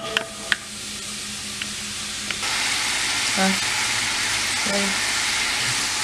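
Diced apples sizzling in butter in a cast-iron skillet: a steady frying hiss that gets louder about two and a half seconds in. A few light knocks in the first half-second.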